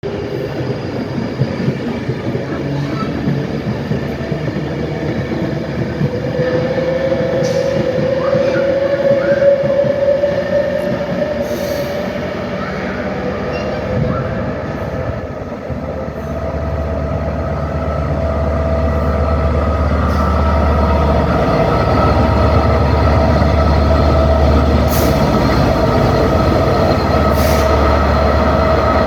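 Train running at a station platform. A drawn-out high squeal rises and fades about a quarter of the way in, and from about halfway a steady low hum with a faint steady whine takes over, as from a train standing with its equipment running.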